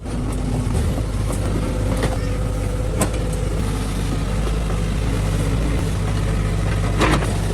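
Engine of heavy machinery idling steadily, with a few sharp metallic knocks over it.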